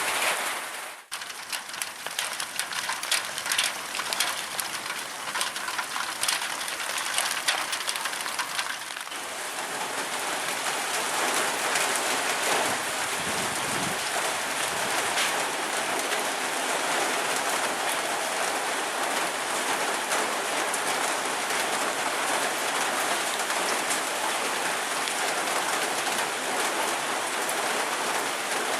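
Heavy tropical-storm rain pouring down and splashing on surfaces. Sharp close drop hits stand out over the first several seconds, then it settles into a steady, even hiss.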